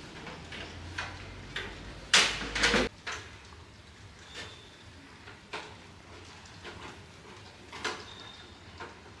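Irregular clicks and knocks of objects being handled, with a louder clatter about two seconds in, over a low hum that cuts off suddenly just before three seconds in.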